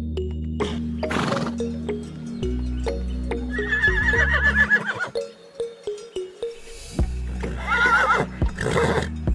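Background music with a horse whinnying twice: two trembling calls that fall in pitch, the first a little after three seconds in, the second near the end.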